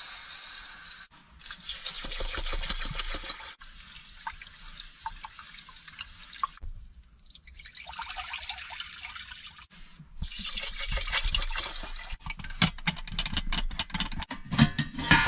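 Water pouring and splashing in several short, abruptly cut stretches, followed near the end by a quick run of clinks and knocks.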